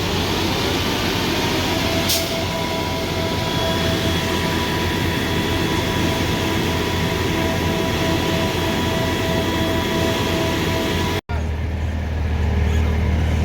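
Diesel engine running steadily with a loud, noisy rumble and a faint steady whine. About eleven seconds in the sound breaks off for an instant, and a deeper engine rumble follows.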